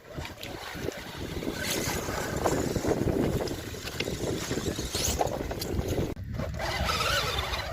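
Radio-controlled mud truck's 3660kv brushless electric motor and drivetrain running under throttle as it drives through mud, rising and falling, with a brief sharp drop about six seconds in. Wind buffets the microphone.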